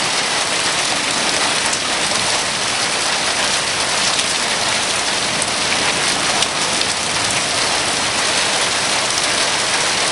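Heavy rain falling steadily in a thunderstorm, an even, unbroken downpour.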